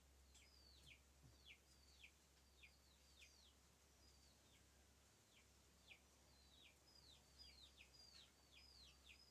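Faint birds chirping: many short notes that slide sharply down in pitch, coming irregularly and overlapping as from several birds at once, over a steady low hum.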